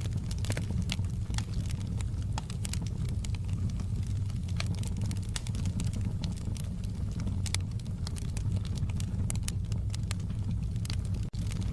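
Wood fire crackling in a fireplace: irregular sharp pops and snaps over a steady low rumble of the burning logs. The sound cuts out for an instant near the end.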